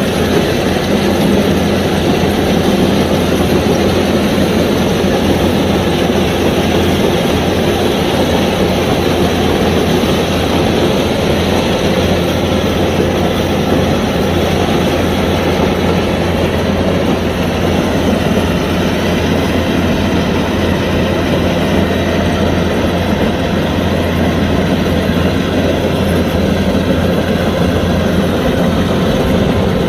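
Kubota DC105X combine harvester running steadily under load, its diesel engine humming with the clatter of the threshing machinery.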